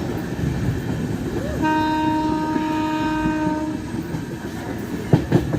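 Passenger train running with a steady rumble and rattle of wheels on track; about one and a half seconds in, a train horn sounds one steady note for about two seconds. Two sharp knocks come near the end.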